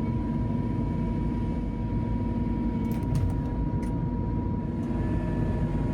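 Diesel engine of a Merlo crane running steadily, with a thin, steady whine over the low drone.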